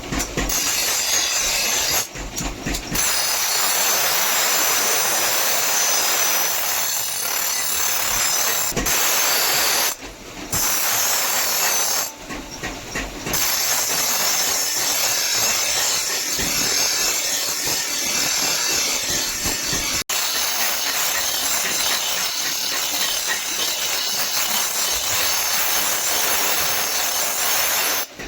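Power grinder grinding the steel of a hand-forged cleaver blade: a loud, steady grinding noise that breaks off briefly three times.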